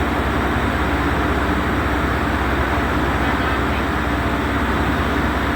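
Steady, loud mechanical drone of a vessel's engine running, with a constant low hum under a rushing noise that does not change.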